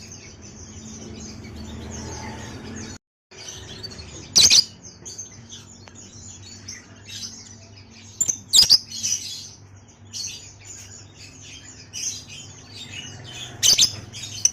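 Small birds chirping continuously in high twittering notes, with a few loud, sharp calls standing out about four seconds in, around eight and a half seconds in, and near the end. The sound cuts out completely for a moment about three seconds in.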